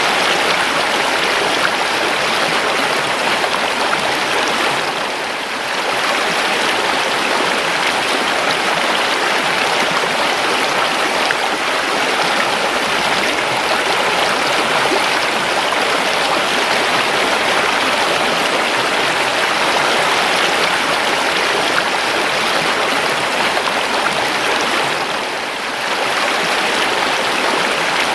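River water flowing in a steady, continuous rush, dipping briefly in level twice, about five seconds in and near the end.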